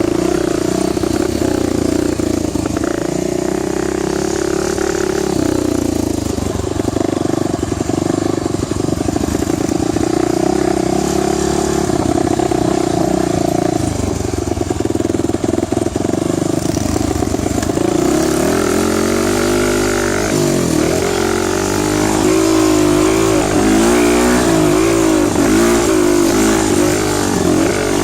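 Dirt bike engine running under way, holding a fairly steady pitch at first, then rising and falling over and over in the last third as the throttle is worked.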